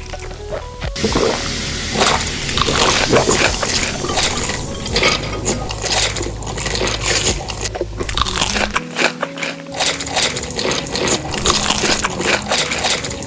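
Close-up eating sounds: food crunching and being chewed in quick, irregular crackles, with some wet mouth and food sounds.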